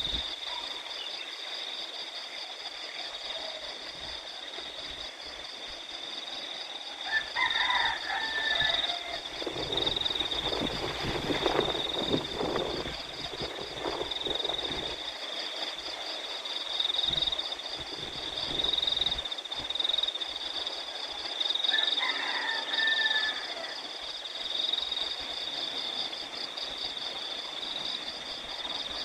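Steady rice-paddy chorus of crickets and frogs, a continuous high pulsing trill. A short animal call with a falling pitch comes twice, about a quarter of the way in and again about three quarters of the way in. A louder stretch of rustling, wind-like noise falls between the two calls.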